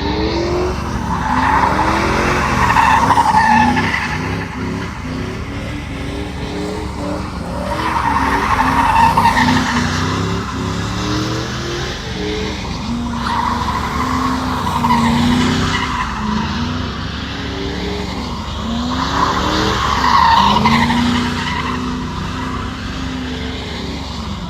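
Truck engine revving hard in repeated bursts while its tyres squeal and skid, with four loud squeals about six seconds apart.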